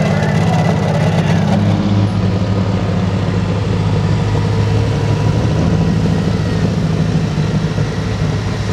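Pulling tractor's engine running steadily at a low, even pitch, with no revving.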